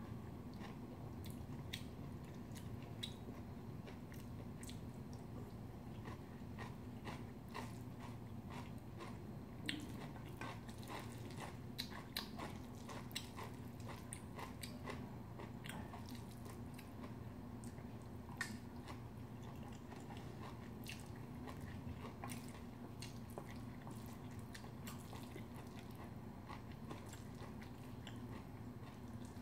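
Close-miked chewing of a mouthful of bibimbap rice and sautéed vegetables, with many short clicks of chopsticks against a stainless steel bowl, a few louder ones now and then, over a steady low hum.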